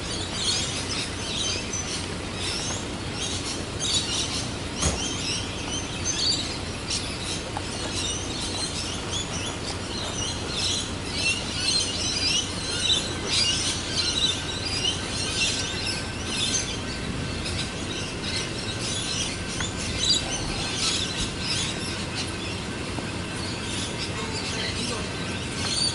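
Many small birds chirping and twittering steadily, over the low rumble of a suburban electric train standing at the platform. A faint steady whine comes in about halfway through.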